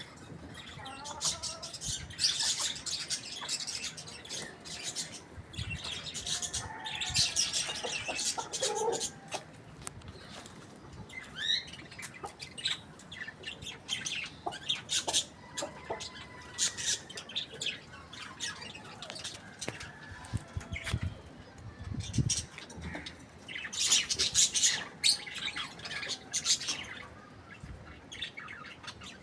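Birds chirping in clusters of rapid high calls, with occasional squawks and gliding calls between the clusters.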